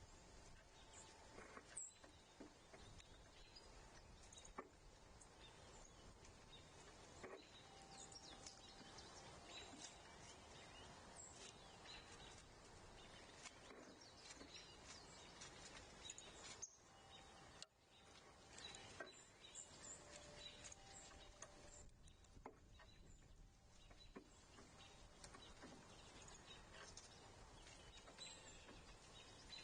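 Faint outdoor ambience with scattered, distant bird chirps and a few small sharp clicks.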